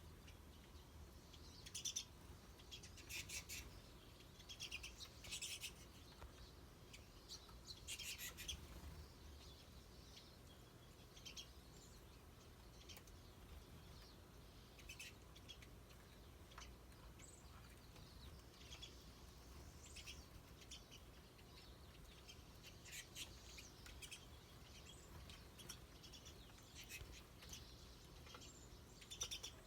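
Small birds chirping: many short, high calls, some in quick clusters, scattered throughout over a faint low background hum.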